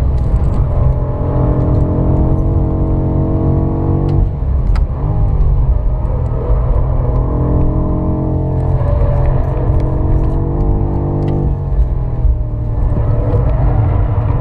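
BMW M5 F90's twin-turbo V8 pulling hard under load, heard from inside the cabin at track speed over road and tyre noise. Its note changes about four seconds in and again near the end, as the gearbox drops from fifth to fourth.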